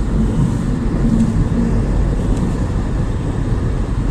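Car driving, its low engine and road rumble heard from inside the cabin.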